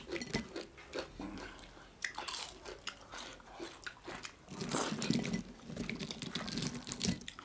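People chewing and biting into crisp fried fish: irregular crunches and wet mouth clicks.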